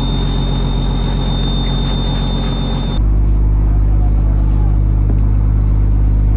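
A fishing trawler's diesel engine running steadily with a low drone. About halfway through, the sound changes abruptly, losing its higher hiss and getting louder in the low end.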